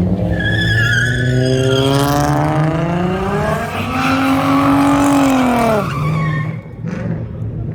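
A car engine revving hard, its pitch climbing for about four seconds, holding at high revs, then dropping off sharply near the six-second mark. Tyres squeal through the first couple of seconds.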